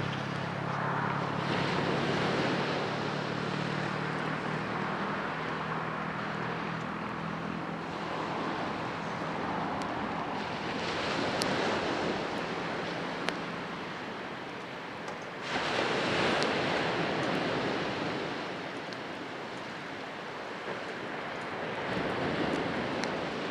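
Waves breaking on a shore, each surge swelling and washing back every few seconds. A steady low hum runs underneath and fades out about halfway through.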